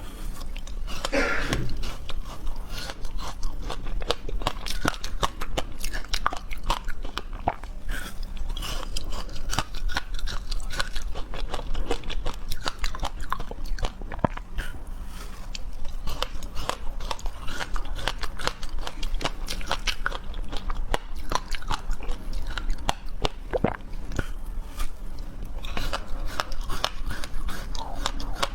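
Close-up chewing and crunching: a dense, irregular run of small crisp crunches and clicks that goes on without a break.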